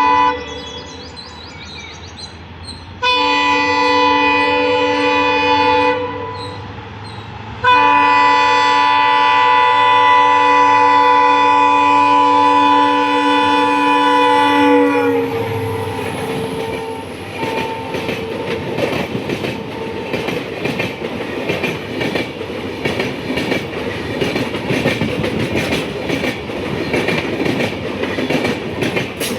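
Indian Railways locomotive horn sounding in blasts: one ending just at the start, a three-second blast, then a long blast of about seven seconds whose pitch drops as the locomotive passes. The train then runs by with steady clickety-clack of wheels over the rail joints.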